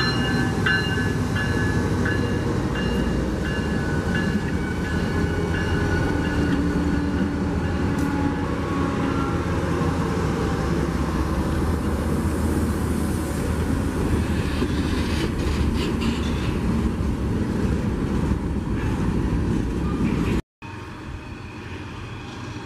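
Freight train cars rolling past on the rails, a steady rumble with some thin high-pitched squeals in the first few seconds. It cuts off suddenly about twenty seconds in and gives way to a quieter steady noise.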